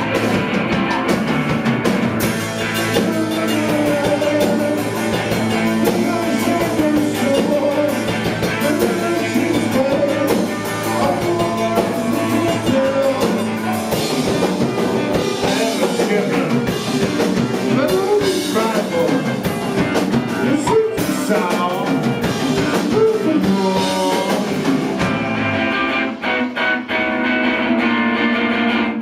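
Rock band playing live, with drum kit, electric guitar and a sung vocal line. About 25 seconds in, the drums and the low end drop out, leaving strummed electric guitar.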